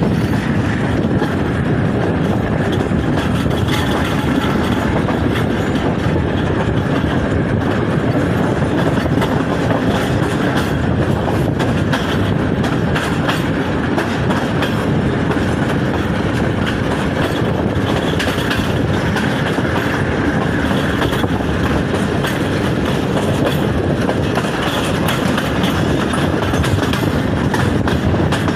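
Hazara Express passenger train running along the track at speed: a steady rumble of wheels and coach, with frequent light clicks over the rails.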